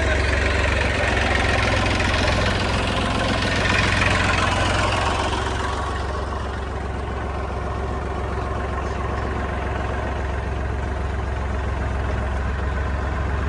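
Heavy diesel engine running steadily. For the first five seconds or so a louder rushing noise rides over it, then dies away, leaving the engine idling.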